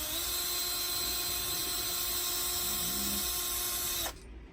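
Electric drill spinning a metal tube wound with stripped fishing line, running with a steady whine that rises slightly in pitch at the start, then cuts off suddenly about four seconds in as the trigger is released.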